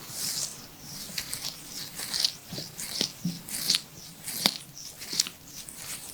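Oiled hands kneading and pressing a woman's bare stomach: irregular wet clicking and squelching of slick skin, a few sharp snaps a second.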